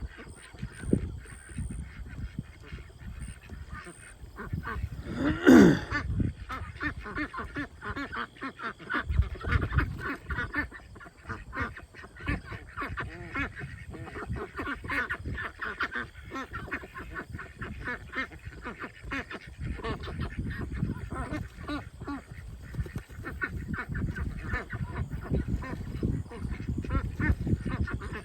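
A mixed flock of domestic ducks, Pekins and Khaki Campbells, quacking over and over as newly combined birds sort out their pecking order. About five and a half seconds in, one loud call falls in pitch.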